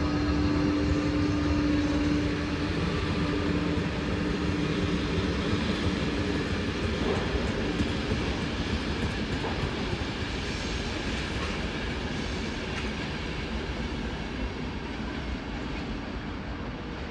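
A train running through the station, its wheels rumbling on the track. A steady motor tone fades out about six seconds in, and the whole sound slowly grows quieter as the train moves away.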